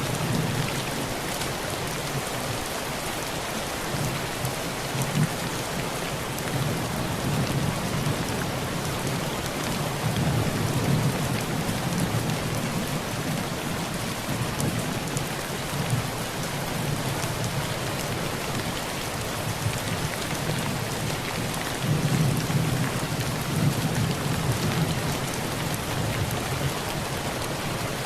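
Heavy rain drumming steadily on a tin roof, with low rolls of thunder that swell about a third of the way in and again near the end.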